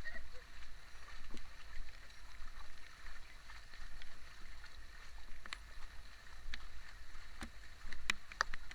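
Heavy rain falling steadily, over a low rumble, with a few sharp drip-like clicks in the second half.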